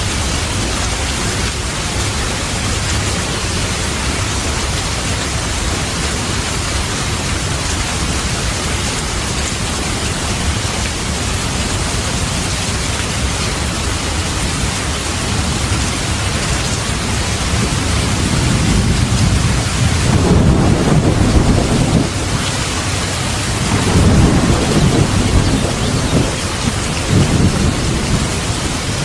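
Steady heavy rain with thunder rumbling, swelling twice in the second half.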